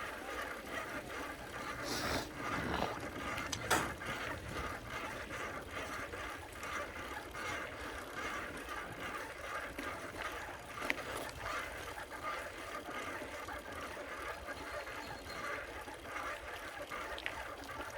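Bicycle riding noise: a steady rush of wind and tyre noise, with a few knocks from the bike about two and four seconds in.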